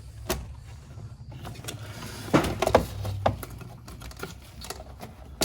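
Irregular light clicks and clatter of engine parts and hand tools being handled during an engine teardown, with a small cluster of sharper knocks about two to three seconds in.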